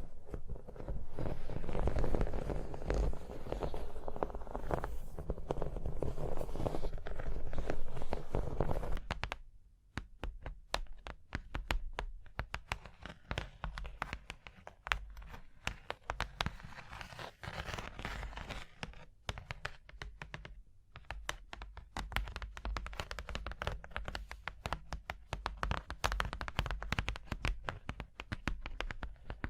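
ASMR tapping and scratching on objects: a dense, continuous scratching for the first nine seconds or so, then, from about ten seconds in, quick, irregular taps.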